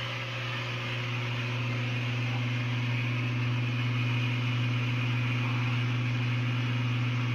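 Gravel vacuum of a tap-driven, bucketless water changer drawing water out of an aquarium: a steady rush of water under an even electric hum. It grows a little louder over the first couple of seconds.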